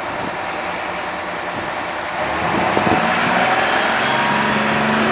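City bus diesel engine in street traffic, getting louder about two seconds in as the bus draws near or pulls away, with a steady engine drone over the road noise.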